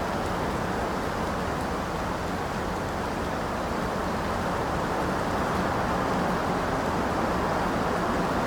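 Steady heavy rain, a dense even wash of noise with no separate drops or thunder standing out.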